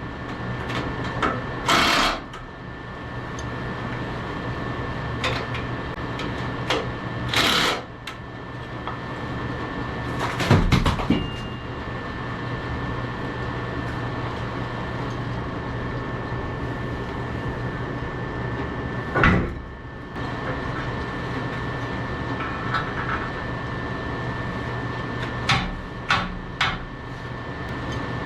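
John Deere 170 skid steer engine running steadily, with a few sharp knocks over it: the strongest about ten seconds in, another near twenty seconds, and a quick run of them near the end.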